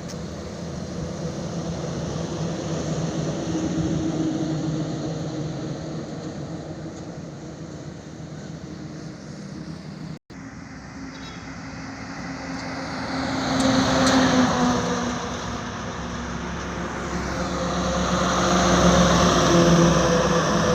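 Highway traffic with heavy trucks: a steady engine drone, then vehicles passing with a swell of engine and tyre noise about two-thirds in and again near the end. The sound cuts out for a moment about halfway.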